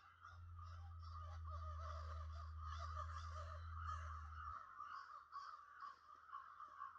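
Faint, continuous chorus of birds calling. A low hum underneath stops about four and a half seconds in.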